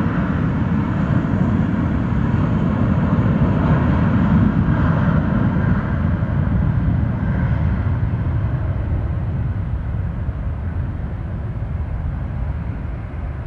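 Airbus A320-family airliner's twin jet engines at takeoff thrust during the takeoff roll: a loud, steady roar that peaks about four seconds in and then slowly fades.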